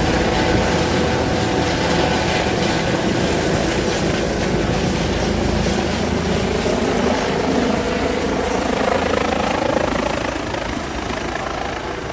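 Eurocopter EC135 P2 helicopter running, its twin turbines and rotors making a steady, dense noise with a faint steady whine in it; it eases off slightly near the end.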